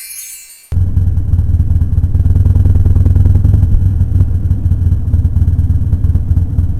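Chime music cuts off less than a second in. It gives way to the loud, steady low rumble of a running engine.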